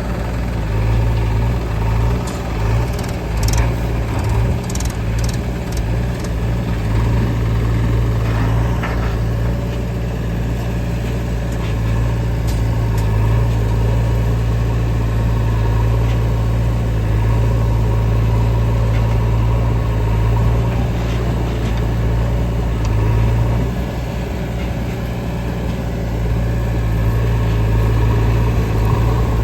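Heavy diesel engine running steadily at an even low pitch, with several knocks and clanks in the first nine seconds.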